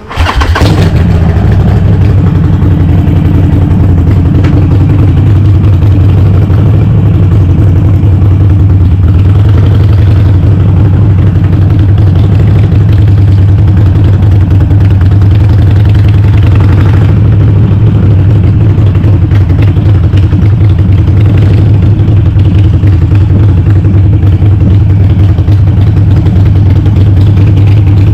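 Harley-Davidson Sportster's 1200 cc air-cooled V-twin, breathing through a Cobra Speedster 909 exhaust with the dB killers removed, catching just as it starts and then idling steadily and loudly.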